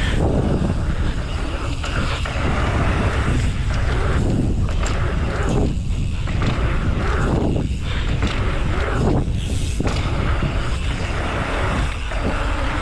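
Strong wind buffeting the microphone: a loud, constant rumble that surges and eases every second or two.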